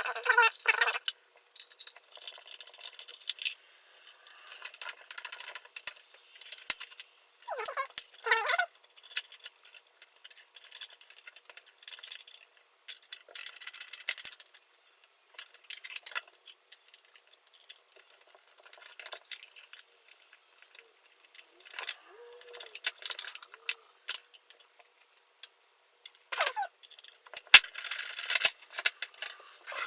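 Small metal parts and tools clicking, clinking and rattling in irregular bursts as camera hardware is handled by hand. A few brief voice fragments come in between.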